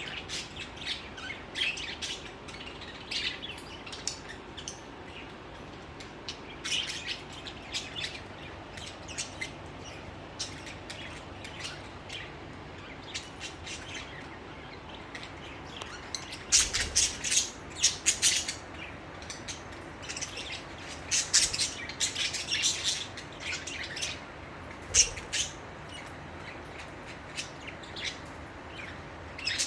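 Pet budgerigars chirping and chattering in short high calls scattered throughout, with louder clusters of calls a little past the halfway point.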